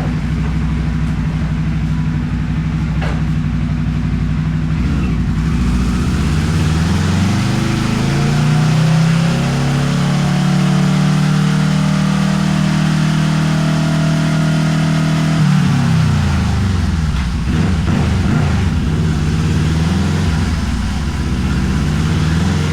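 2014 Kawasaki ER-6N 650cc parallel-twin, with a gutted end can and custom midpipe, being run on a dyno. It ticks over steadily, revs up over about four seconds, holds a steady high engine speed for about five seconds, then drops back to a low idle.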